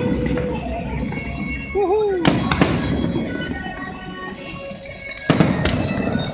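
Aerial fireworks bursting, with two loud bangs about two and five seconds in and crackling between them, over music playing.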